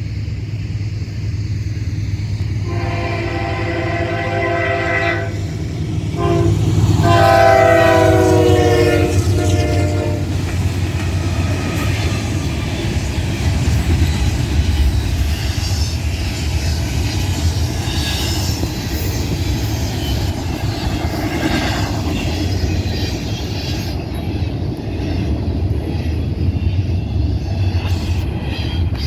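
Freight train led by a GE C44-9W (Dash 9) diesel locomotive passing, with the lead engine sounding its multi-tone horn twice about three seconds in, a shorter blast and then a louder, longer one. A steady diesel rumble runs under it, and the rolling clatter of the passing train carries on after the horn.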